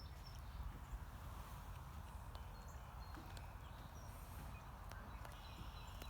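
A small creek running steadily, with a few faint high chirps and light clicks over it.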